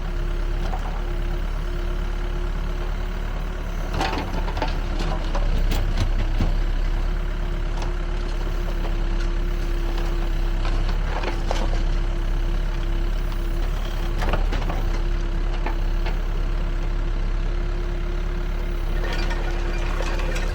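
Backhoe loader's diesel engine running steadily with a constant hydraulic whine, while the screening bucket works and soil and rubble give several sharp clatters scattered through.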